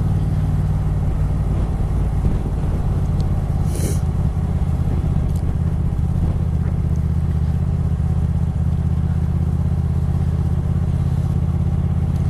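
Motorcycle engine running at a steady speed while riding, holding an even pitch, with road and wind noise around it. A short hiss cuts in about four seconds in.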